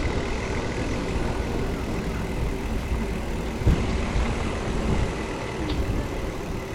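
Steady low rumble of wind and road noise while riding a bicycle through city streets, with one short knock almost four seconds in.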